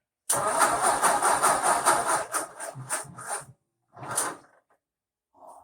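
1958 Ford 851 tractor's engine cranking over on the starter with the choke on, a fast pulsing churn for about three seconds, then a second short crank about four seconds in; it nearly catches but does not start.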